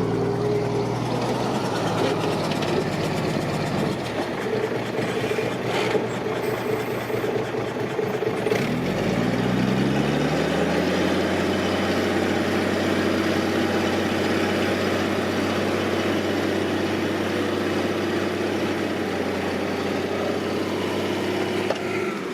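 Heavy diesel engine of construction machinery running steadily; about nine seconds in its pitch rises as the engine speeds up, then holds at the higher speed.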